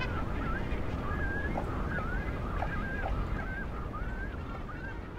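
Bank cormorant colony calling: a run of short, wavering, honk-like cries, several a second, over a steady low rumble, easing off toward the end.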